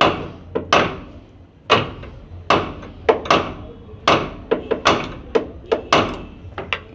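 Hammer blows knocking the old outer tie-rod end loose: a rapid, uneven series of sharp metal strikes, with some coming in quick pairs.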